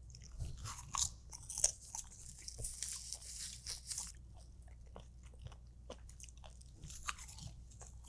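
A person chewing a mouthful of tacowasabi, raw octopus dressed with wasabi, in a quick run of small chewing clicks. The clicks are thickest in the first half, thin out, then pick up again near the end.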